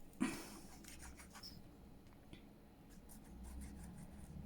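Faint rustling and light taps of paper and fabric pieces being handled on a craft table, with a sharper click just after the start, over a low steady hum.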